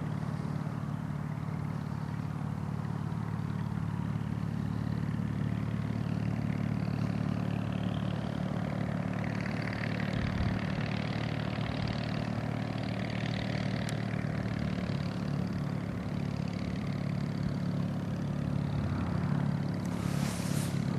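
Ultra Cruiser ultralight's stroked two-cylinder Volkswagen-based engine and propeller running steadily at low power while taxiing on the ground.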